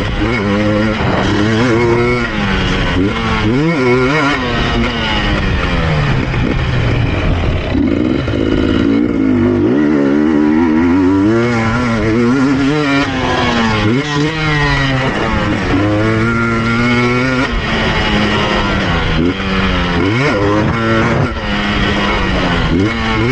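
KTM EXC 250 TPI two-stroke engine revving hard and shutting off again and again, its pitch sweeping up and down with each burst of throttle.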